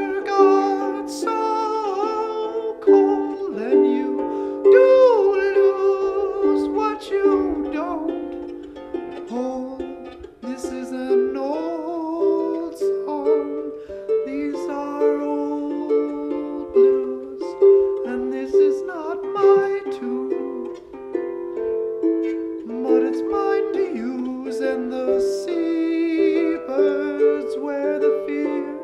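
Live acoustic music: plucked strings in a ukulele-like register playing an instrumental passage, with a sliding melodic line above, in a small room.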